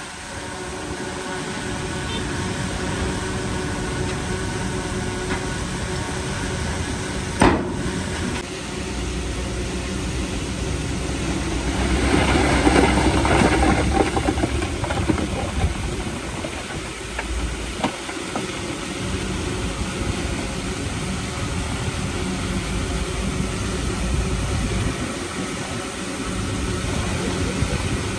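Heavy diesel earthmoving machinery running steadily, with a sharp knock about seven seconds in. About twelve seconds in it grows louder and rougher for a few seconds, then settles back.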